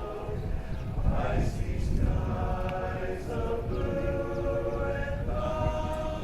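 A group of voices singing held, sustained chords.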